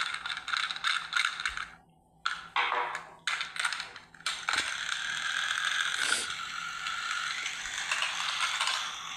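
Small battery-powered toy train engine's motor and plastic gears running with a fast clicking rattle. It cuts out about two seconds in, starts and stops a few times, then runs steadily.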